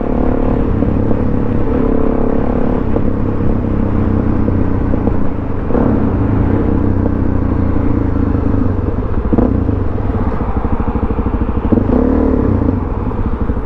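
Suzuki DRZ400SM's single-cylinder four-stroke engine running steadily while riding, through a Yoshimura exhaust with the baffle in. Its pitch shifts a little a couple of times as the engine speed changes.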